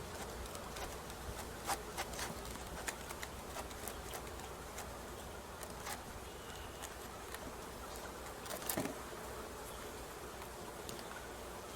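Honey bees buzzing steadily as a low, even hum, with scattered small clicks and taps of handling, and a brief louder rustle about nine seconds in.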